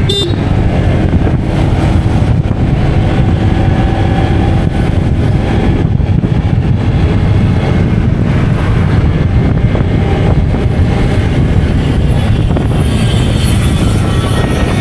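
Steady rumble of a vehicle on the move, with wind rushing over the microphone.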